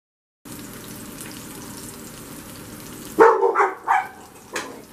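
A tuna steak searing in olive oil in a frying pan, a steady sizzle that starts abruptly about half a second in. About three seconds in, four short, loud barks cut across the sizzle, the last one about a second after the first three.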